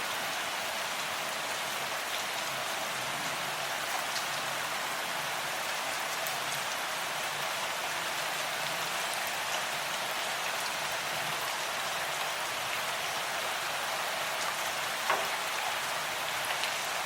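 Steady rain falling, an even hiss with scattered drops ticking, and one louder drop striking near the end.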